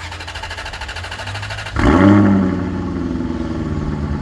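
Car engine running, with a sudden loud rev about two seconds in, then settling into a steady run with its pitch slowly falling.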